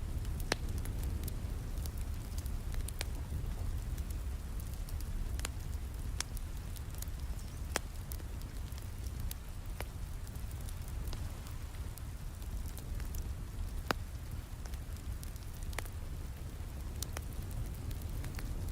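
Steady rain with a deep, even rush, and a fireplace crackling over it in sharp, scattered pops.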